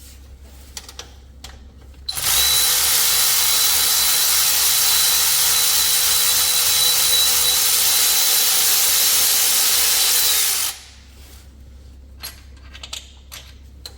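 A power tool running without a break for about eight seconds: a loud, steady whir with hiss that starts suddenly about two seconds in and cuts off near the end.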